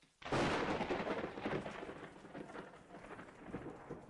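A sudden thunderclap about a quarter second in, followed by a rumble that slowly fades.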